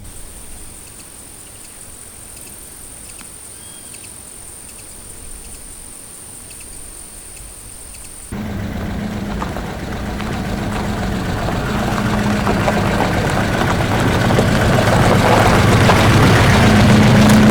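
Quiet outdoor ambience with a steady high-pitched whine. About eight seconds in, it cuts suddenly to an old Chevrolet Chevette's engine running with a steady hum, growing louder toward the end.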